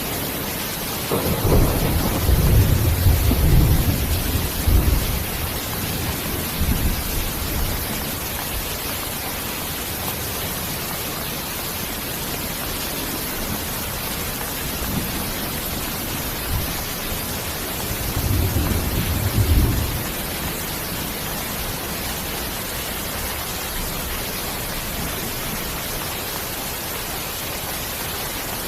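Steady heavy rain with rolling thunder: a long low rumble of thunder starting about a second in, and a second, shorter rumble around two-thirds of the way through.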